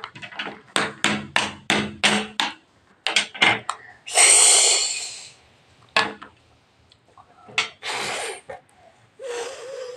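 Tool sounds: a quick run of hammer taps, about three a second, then a few scattered taps and several bursts of hissing noise, the loudest about four seconds in.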